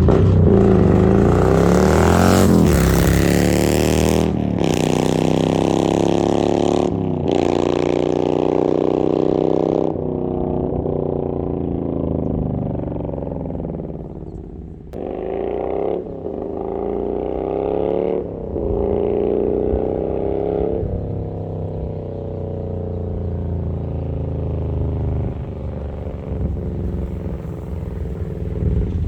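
Harley-Davidson Milwaukee-Eight V-twin with an S&S 475 cam and Mutazu 2.0 megaphone slip-on exhaust, accelerating hard through the gears. The pitch climbs with each pull and drops back at each shift, several times over.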